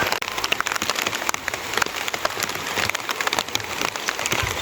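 Rain falling steadily, with many individual drops clicking sharply as they hit a surface.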